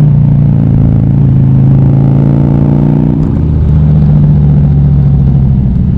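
Motorcycle engine running steadily on the road, its note dropping about halfway through as the engine speed changes.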